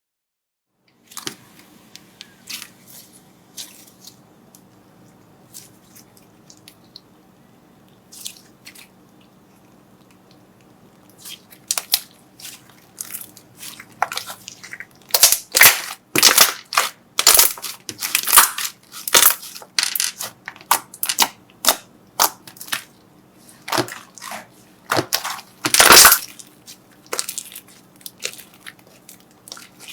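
Slime being squeezed and poked, giving sharp pops and crackles. They are sparse at first, then come thick and loud from about halfway through.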